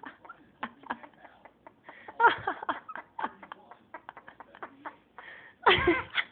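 Pet parrot giving short laugh-like chuckles amid rapid clicks and chatter, with a louder laugh near the end.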